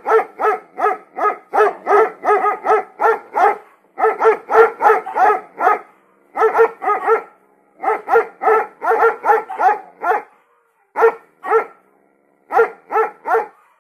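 A dog barking over and over, about three barks a second, in a series of bouts broken by short pauses.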